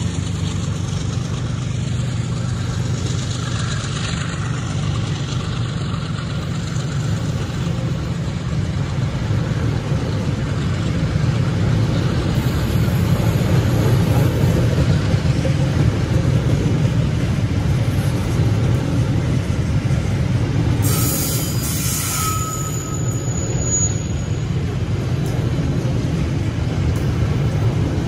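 Loaded covered pulp wagons of a freight train rolling past close by: a steady, heavy rumble of steel wheels on the rails. A brief high wheel squeal cuts in about three-quarters of the way through.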